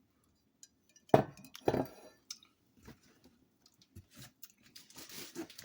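Ceramic Rae Dunn mugs being handled on a table: two clunks about a second apart, then lighter clinks and clicks, with some rustling near the end.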